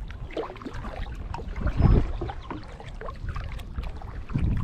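Kayak paddle strokes: a swell of splashing and dripping water about every two and a half seconds, loudest about two seconds in and again near the end, with small drips and ticks between strokes.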